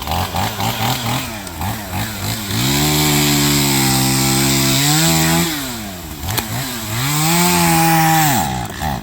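Two-stroke chainsaw revved up twice, held at full throttle for a few seconds each time and dropping back toward idle in between.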